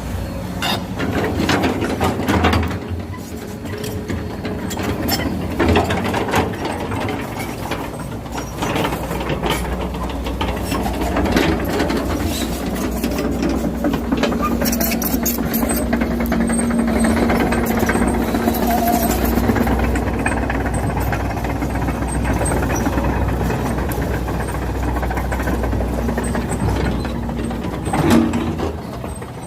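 Truck engine running, a steady low drone with scattered knocks and clatter, and a steadier held note for several seconds in the middle.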